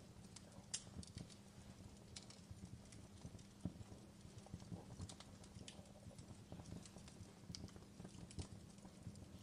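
Fireplace crackling, faint: irregular pops and snaps of a burning wood fire over a low steady rumble.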